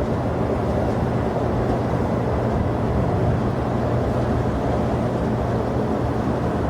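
Jet airliner engine noise, steady and loud, with no change in pitch or level.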